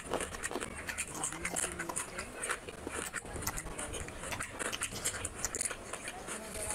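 Close-miked eating: wet chewing and lip smacking with many short clicks, as a mouthful of chicken curry and rice is eaten by hand.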